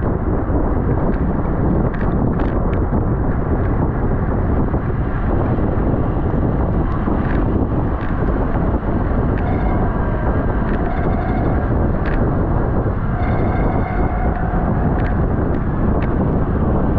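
Heavy, steady wind rushing over the microphone of a camera riding on a racing bicycle at speed. A few sharp clicks are scattered through it, and short tones come and go in the second half.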